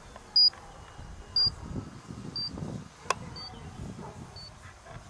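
A radio-control transmitter beeping: short high beeps about once a second, getting fainter. Gusts of wind rumble on the microphone, with a sharp click about three seconds in.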